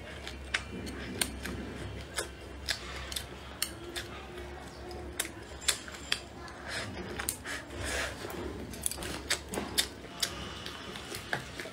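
Close-miked mouth sounds of someone biting and chewing blistered green chili peppers: irregular sharp wet clicks and smacks, several a second, over a low steady hum.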